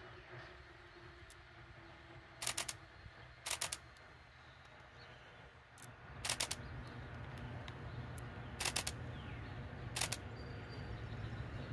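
Low rumble of two distant approaching trains, an Amtrak Acela II high-speed trainset and an electric-locomotive-hauled Amtrak train, growing louder about halfway through. Five short bursts of rapid clicking stand out above it.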